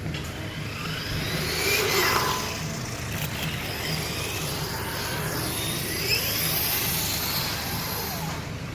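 Brushless electric motor of an HSP Brontosaurus 1/10 RC monster truck whining as the truck is driven. The pitch rises and falls twice as it speeds up and slows, over a hiss and a steady low hum.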